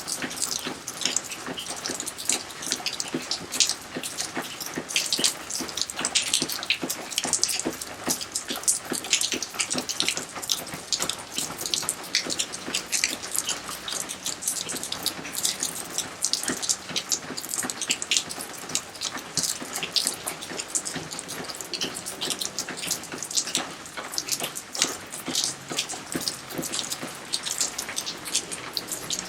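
Rain falling in a garden together with a water fountain splashing into a pond: a steady, dense patter of drops and splashing water.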